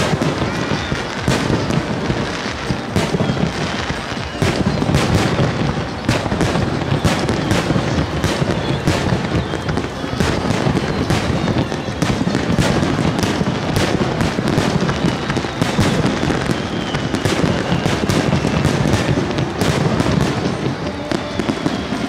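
Fireworks display: a dense, continuous barrage of booming bursts and sharp cracks over a rolling low rumble, with faint falling whistles here and there.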